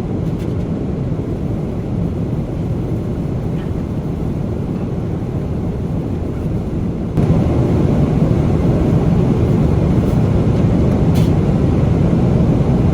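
Steady in-flight cabin noise of a Boeing 777-300ER airliner in flight, a low even rush of engine and airflow. It gets abruptly louder about seven seconds in.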